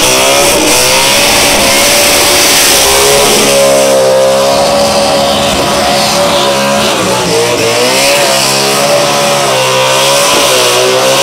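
Dodge NASCAR V8 engine in a VH Commodore, an engine built to rev past 8,000 rpm, held at very high revs under load in a burnout with the rear tyres spinning. The pitch wavers, dipping briefly and climbing back about a second in, again around seven seconds, and near the end.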